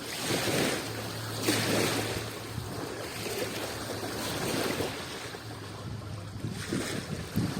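Adriatic Sea waves washing against the shore, the water rising in several separate surges a second or two apart over a steady wash.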